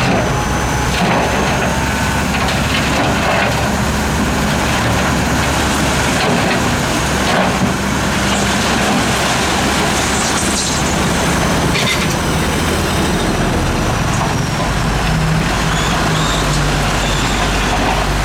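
Heavy diesel earthmoving machinery running steadily with a low engine drone, with a few scattered knocks and scrapes; the engine note shifts lower about fifteen seconds in.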